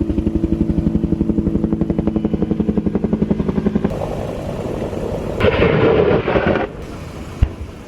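Military helicopter with a fast, even rotor pulse for about four seconds, followed by a louder noisy rush and a single sharp crack near the end.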